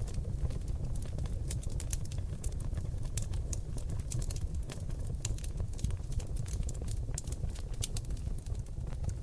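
Seasoned oak logs burning in a fireplace: dense, irregular crackles and sharp pops over a steady low rumble of the flames.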